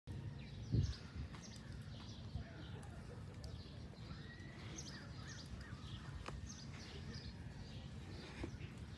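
Faint outdoor ambience with small birds chirping on and off, and a single low thump about a second in.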